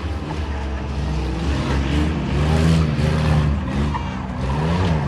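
Race trucks' engines revving on the track, the pitch climbing about two seconds in and dropping again near the end as they accelerate and back off, over a steady low rumble.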